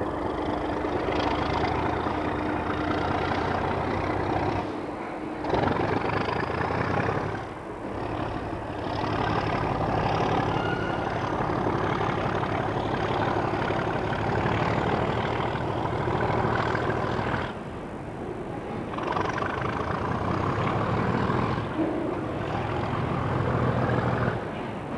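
Trains running at a railway station, with steady engine noise. The sound breaks off and changes abruptly several times.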